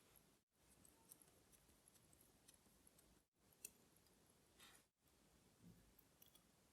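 Near silence, with a few faint small clicks, the sharpest about halfway through.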